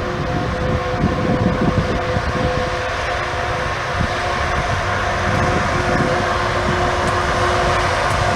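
South African Class 18E electric locomotives hauling a freight train, giving a steady whine of several held tones over a rough low rumble.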